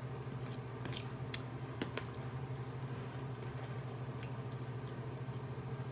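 Person eating a meal: quiet chewing and mouth sounds, with a few sharp clicks about a second in, over a steady low hum.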